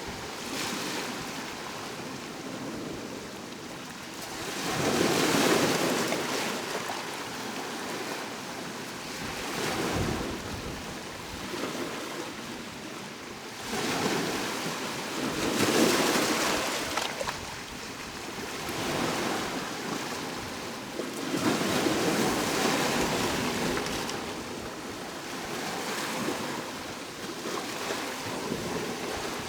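Ocean waves breaking on a shore, swelling and washing back about every five or six seconds.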